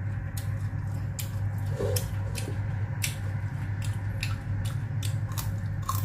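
Close-up mouth sounds of a person chewing food, irregular wet clicks and smacks, over a steady low hum.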